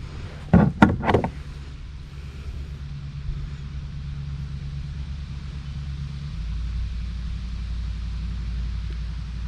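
A steady low engine hum that shifts to a deeper, louder drone about six seconds in, with a few sharp knocks about a second in.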